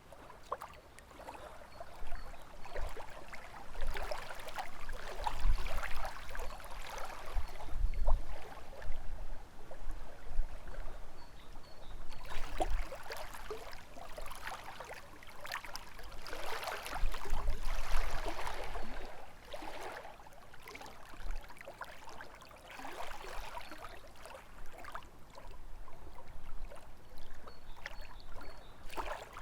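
Small lake waves lapping and splashing against the shore, swelling and easing every few seconds, with gusts of wind rumbling underneath.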